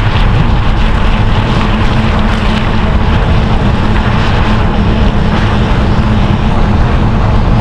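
Studded bicycle tyres rolling at speed, giving a loud, steady low hum that sounds like a tank driving behind.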